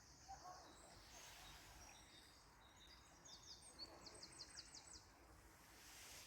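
Faint high-pitched bird song. About halfway through comes a trill of quick downward-sweeping notes, roughly five a second.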